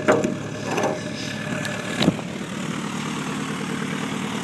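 An engine idling steadily, with a few short knocks and clicks over it near the start and about two seconds in.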